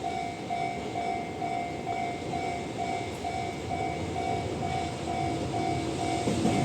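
A Japanese level-crossing warning bell dinging steadily, about two dings a second, over the rumble of an approaching freight train hauled by an EH500 electric locomotive, the rumble growing louder near the end.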